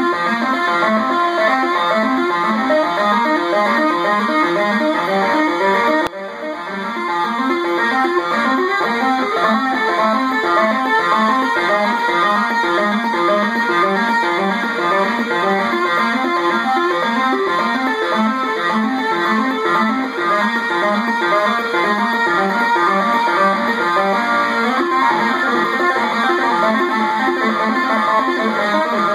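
Electric guitar with Seymour Duncan Blackout active pickups, played through a small practice amp: a fast lead passage of rapid, repeating note patterns with light finger tapping, the pickups' compression keeping tapped notes almost as loud as picked ones. The playing breaks off briefly about six seconds in.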